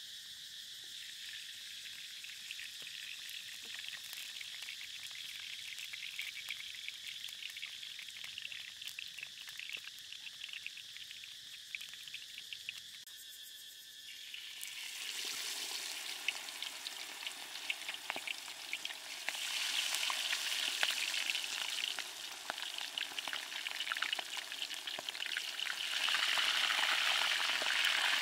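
Crackling wood fire under a steady insect chirr, then, about halfway through, chicken legs lowered into hot oil in a wok start sizzling in a deep-fry. The sizzle grows louder in steps as more pieces go in.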